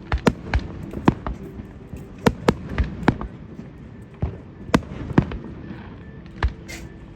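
Fireworks display: aerial shells bursting in a rapid, irregular string of sharp bangs, more than a dozen over several seconds.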